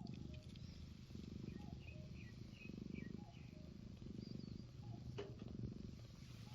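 A cat purring close by, in swells about every second and a half as it breathes in and out. Small birds chirp faintly.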